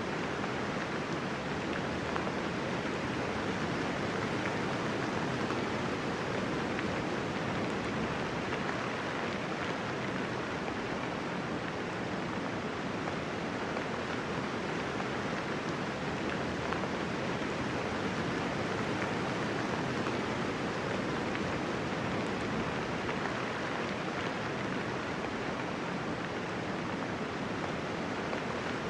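Steady, even rainfall: soft rain with no thunder.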